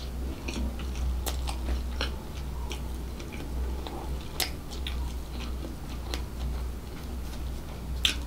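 Close-miked chewing of a chicken bockwurst hot dog in a soft bun, with wet mouth clicks and smacks throughout. A sharper bite comes near the end. A steady low hum runs underneath.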